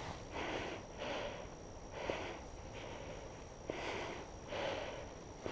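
A person breathing audibly in and out, about one breath a second, each breath a soft hiss.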